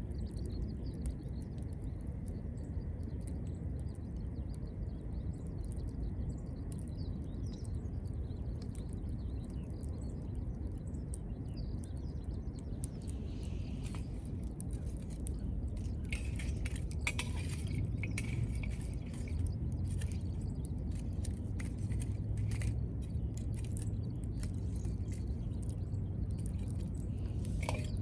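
Wood fire crackling with scattered snaps and pops over a low steady rumble, the snaps coming more often in the second half.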